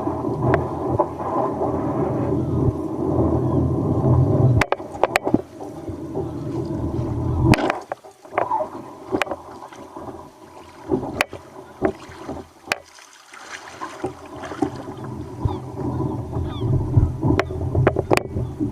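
Wind buffeting the microphone over water sloshing against a kayak in a rough sea, the rumble surging and dropping out in gusts, with sharp knocks now and then.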